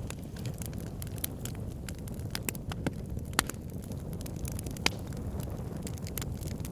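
Wood fire burning in a fireplace, a steady low rumble with frequent sharp crackles and pops, two louder pops about three and a half and five seconds in.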